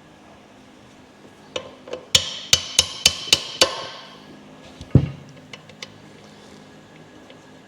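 Hammer blows on metal transmission parts: a quick run of about six sharp strikes with a ringing metallic tone, then one heavier blow about five seconds in and a few light taps.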